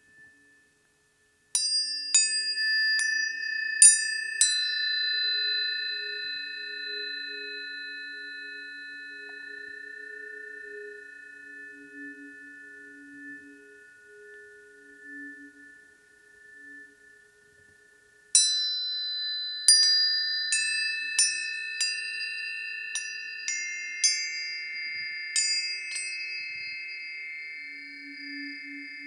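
Planetary tuning forks struck several times in quick succession, each strike a sharp tap followed by clear high tones that ring together and slowly fade. A second round of strikes comes about two-thirds of the way through, adding new tones over the still-ringing ones.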